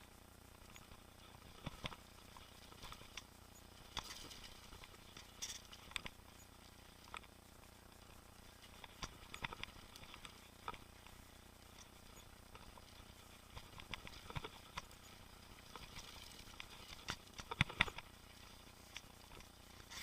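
Mountain bike rattling and clicking over a rough trail: irregular small knocks and ticks, with a louder cluster of knocks near the end.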